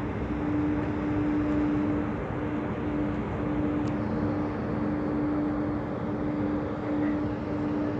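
Steady engine drone with a constant low hum over a broad rumble.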